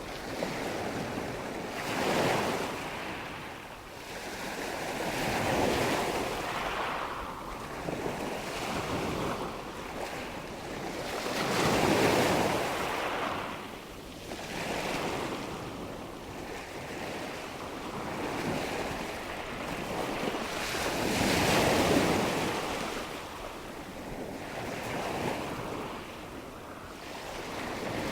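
Nature ambience of rushing water and wind, a steady wash of noise that swells and fades every few seconds like surf rolling in.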